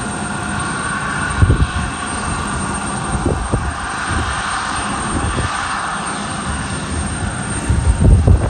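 Jet airliner engines running, a steady rushing sound with a held whine. Low thumps on the microphone come about a second and a half in and again near the end.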